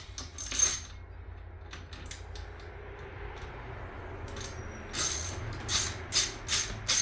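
Metal tool work on an outboard's gear housing: a sharp metallic clink, then a few quick ratchet-wrench strokes from about five seconds in as a bolt is turned.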